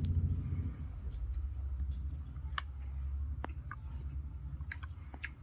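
A man eating rice and wild hen curry by hand from a steel plate: chewing and scattered small clicks of fingers and food, over a steady low rumble.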